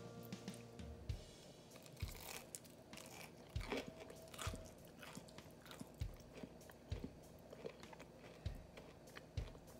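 Close-miked biting and chewing of a crisp breadcrumb-coated, oven-baked eggplant slice: a crunchy bite, then steady crackly chewing with soft low thuds about once a second.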